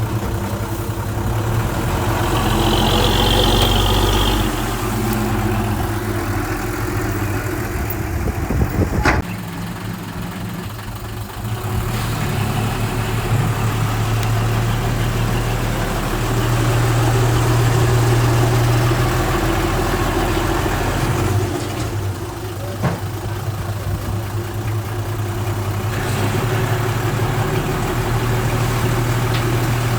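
Heavy diesel engine of earthmoving machinery running, swelling and easing in loudness several times as it works. There are a few sharp metallic knocks about nine seconds in.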